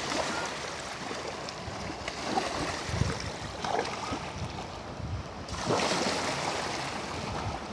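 Small sea waves washing onto a stony shore, swelling in about a second in and again after five seconds, with some wind on the microphone.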